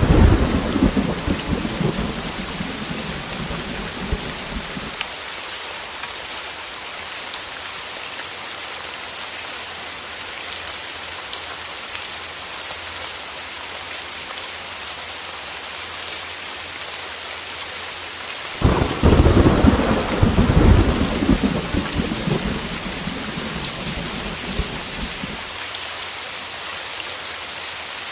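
Heavy rain beating steadily on a window, with thunder rumbling twice: a roll that dies away over the first few seconds, then a sudden new clap about two-thirds of the way in that rumbles for several seconds and fades.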